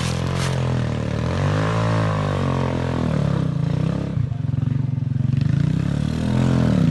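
Trail motorcycle engine revving up and down as it climbs a rough dirt track. It drops off briefly about four seconds in, then picks up again.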